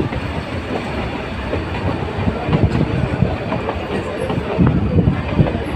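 Metre-gauge Nilgiri Mountain Railway train running on the rails: a steady rumble with irregular knocks from the wheels and carriages.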